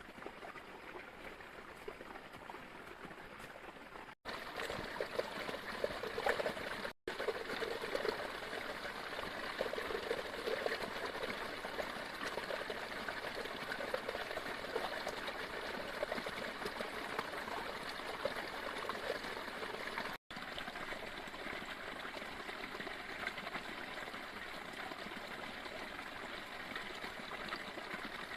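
Heavy rain falling steadily, with water trickling and running. The sound gets louder about four seconds in and cuts out briefly three times.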